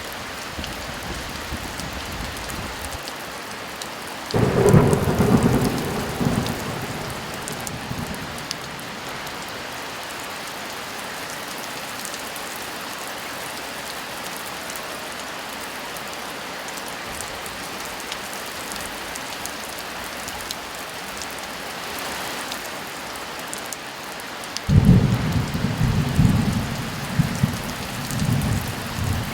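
Heavy, steady rain with two rolls of thunder: a short rumble about four seconds in and a longer, louder one near the end.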